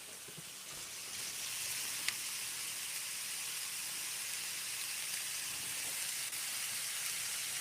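Smash burger patties sizzling steadily as they fry on a hot cooking surface, the sizzle picking up about a second in, with a light click or two.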